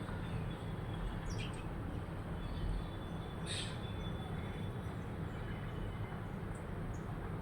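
A few short, high bird chirps, one around a second in and a louder one in the middle, over a steady low background rumble.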